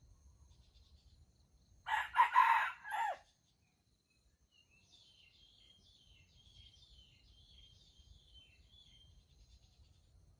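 A junglefowl rooster crows once, a short crow in several parts that ends on a falling note. Faint insect chirping follows.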